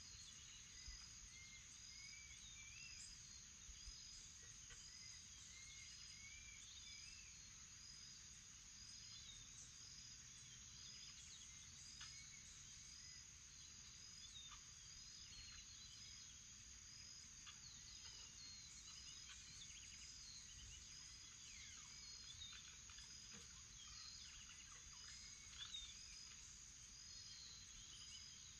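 Faint morning birdsong and insects: a steady high insect drone, a short high note repeated at an even pace, and scattered bird chirps and whistled calls.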